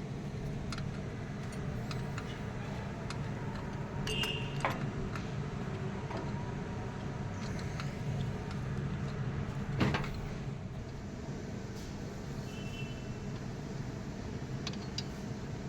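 Scattered light clicks and clinks of hand tools on metal during engine work, with a brief metallic ring twice and a sharper knock about ten seconds in, over a steady low hum.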